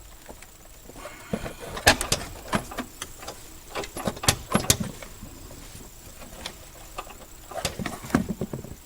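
Irregular clicks and knocks of parts and tools being handled under a car's hood during an intake install, in two clusters: a busy run over the first few seconds and a shorter one near the end.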